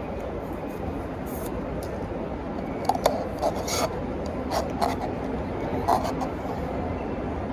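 A few short rubbing and scraping sounds, clustered about three to six seconds in, over a steady background hum.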